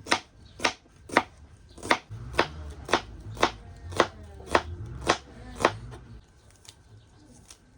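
Knife chopping on a cutting board with steady, evenly spaced strokes about two a second; the chopping stops about six seconds in, leaving a few faint taps.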